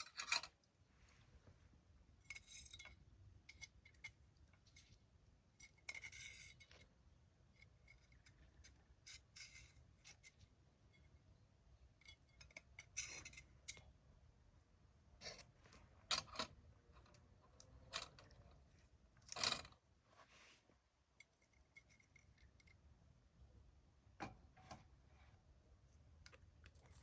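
Scattered small handling sounds: light clicks, clinks and brief scrapes at irregular intervals, over a faint low background rumble.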